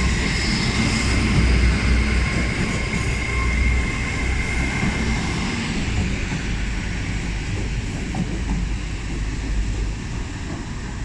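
Class 800 train moving slowly into the sidings, a steady low rumble with a thin high whine in the first few seconds, both slowly fading toward the end.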